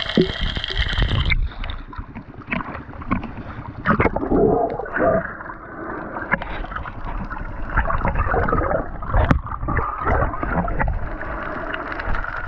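Underwater sound of water gurgling and bubbling, muffled and dull. A brighter, steady sound in the first second cuts off suddenly, and from then on the sound is the closed-in muffle of underwater listening, with irregular bubbling and a few clicks.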